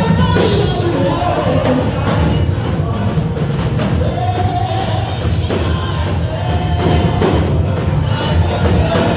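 Live worship music in a church hall: singing over a band with drums and a steady heavy bass.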